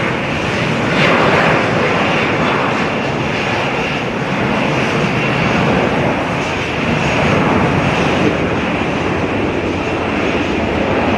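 Jet airliner engines running, a loud steady rush of engine noise that swells slightly about a second in and again near the end.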